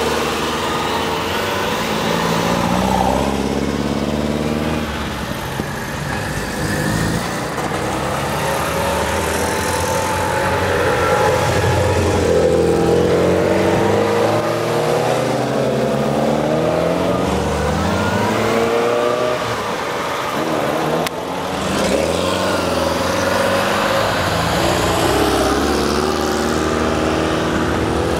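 A column of classic NSU cars pulling away one after another. Their small engines rev up and ease off as each car passes, so several engine notes overlap and rise and fall.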